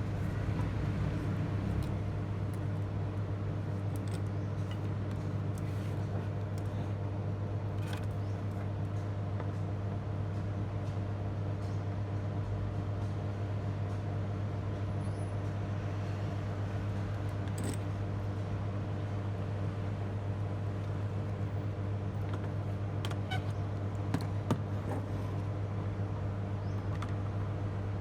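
Steady low electrical hum, with a few faint clicks and taps scattered through it.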